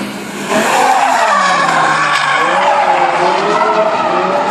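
BMW M6 drifting: tyres squealing in a long slide while the engine runs at high revs, its pitch wavering up and down. The sound jumps louder about half a second in.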